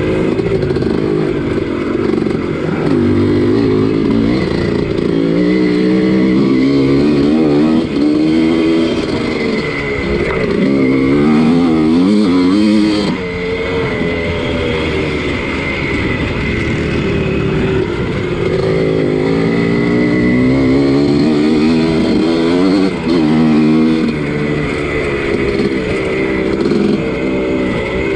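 Two-stroke single-cylinder engine of a 1983 Husqvarna 250CR motocross bike being ridden hard, revving up and falling off over and over as the throttle opens and closes.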